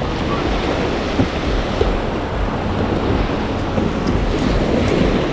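Steady wind buffeting the microphone, with the wash of choppy waves.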